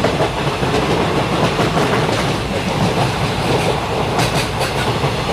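Jaffar Express passenger train running on the track: a steady rumble with wheels clattering over the rail joints, with a few sharper clicks about four seconds in.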